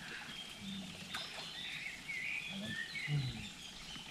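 Small birds chirping: a series of short, high calls, some sliding up or down in pitch.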